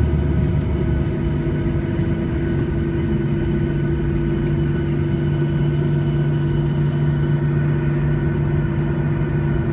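Cabin noise of a Boeing 737-800 rolling on the ground after landing: steady rumble and hum of its CFM56 engines. A high whine drops away and stops about two seconds in.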